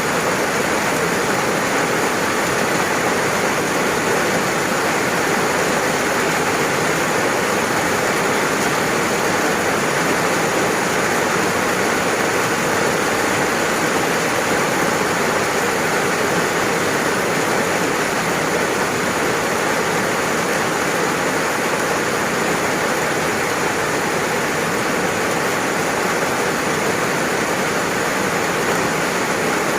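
Steady, unbroken rain noise, an even hiss of falling rain with no separate drops standing out.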